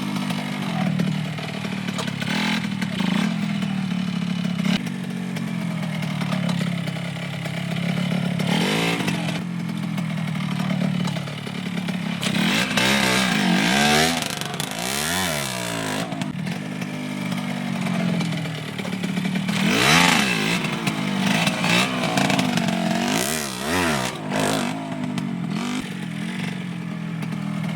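Dirt bike engine running low with repeated short throttle revs, its pitch rising and falling again several times, the longest run of revs near the middle.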